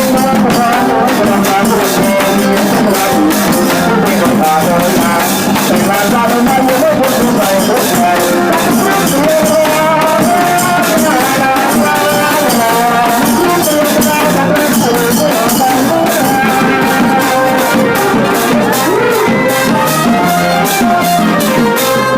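Thai trae wong brass band playing: horns carry a moving melody over drums and a fast, dense rattle of cymbals and shakers.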